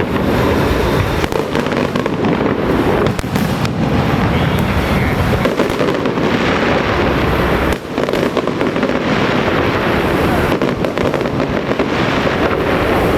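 Firecrackers going off in a dense, continuous crackling barrage, with a brief lull just under eight seconds in.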